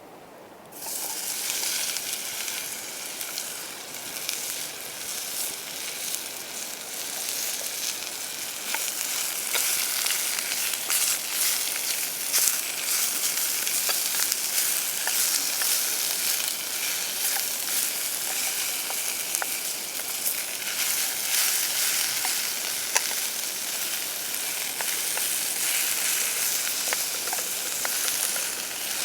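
Food frying in hot oil in a pan, with a steady sizzle full of small pops and crackles that starts suddenly about a second in, as the food hits the pan.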